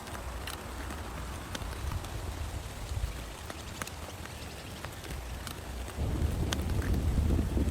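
Heavy rain falling steadily, with sharp drops ticking on a plastic tarp. About six seconds in, a deep rumble of thunder starts and swells louder.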